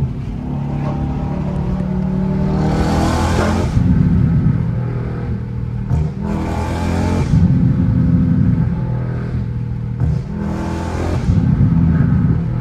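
Dodge Charger Scat Pack's 392 (6.4-litre) HEMI V8 through a straight-piped exhaust, running under way and revving up three times on downshifts. The exhaust pops and flames of the flame kit do not come.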